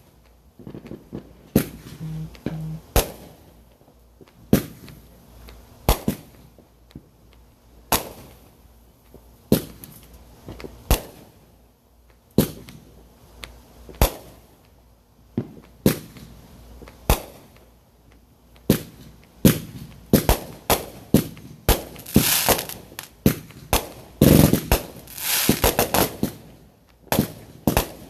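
Consumer fireworks going off: sharp bangs spaced about a second apart, crowding into a fast run of crackling bangs near the end.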